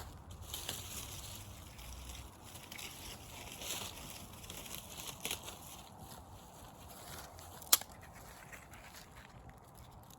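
Wood bonfire crackling, with scattered small pops and one much louder sharp pop about three quarters of the way through.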